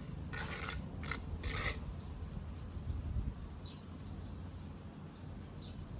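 Three short rustling scrapes in the first two seconds, then a steady low background hum with a few faint, short high chirps.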